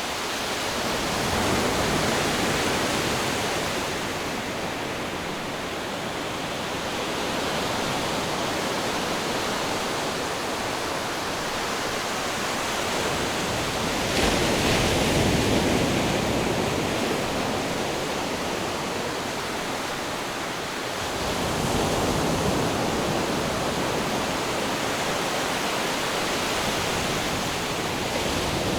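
Ocean waves washing onto a shore in a continuous rush of surf. It swells louder three times as waves break, the strongest about halfway through.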